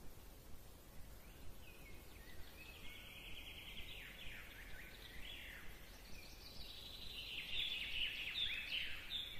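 Faint bird chirps and calls, many short falling notes overlapping, growing busier about seven seconds in.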